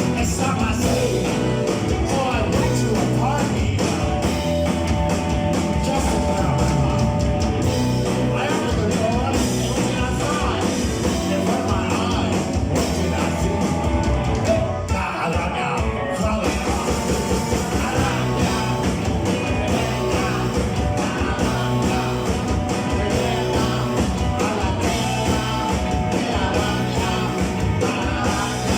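Live rock band playing a song, with electric guitar and drums and a voice singing at times.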